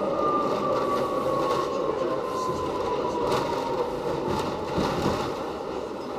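Subway train running, with a steady rumble and rattle and a thin whine that slowly falls in pitch over the first few seconds.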